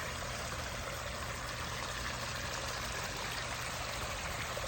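Pondless backyard waterfall running: water falling and splashing in a continuous, even rush.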